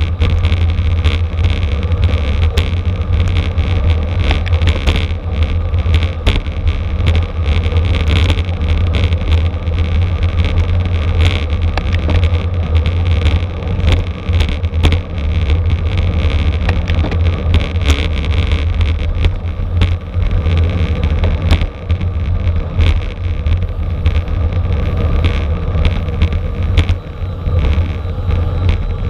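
Wind buffeting a camera microphone on a racing bicycle, a loud steady low rumble, with many small clicks and rattles throughout.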